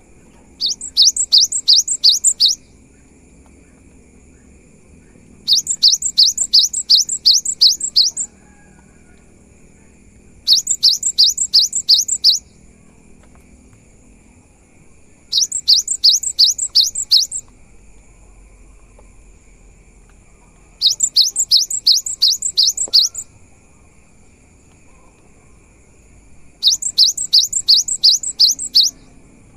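Cinereous tit (gelatik batu) singing loudly: six bouts of rapid repeated high, downward-sweeping notes, each bout about two to three seconds long, with pauses of a few seconds between. A faint steady high tone runs underneath.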